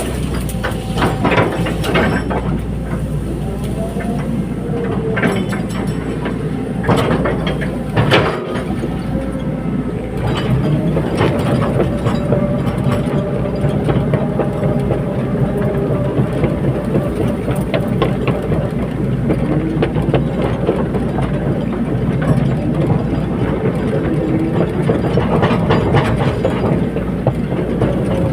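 Caterpillar 320D hydraulic excavator working: the diesel engine runs steadily under load while the hydraulic whine rises and falls in pitch, with repeated metallic clanks and knocks, heaviest in the first eight seconds or so.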